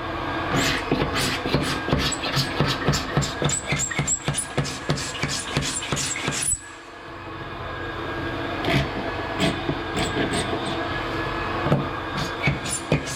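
Floor-sanding machine running, a steady motor hum under rapid, irregular clattering clicks. The sound drops suddenly a little after six seconds in, then builds back up.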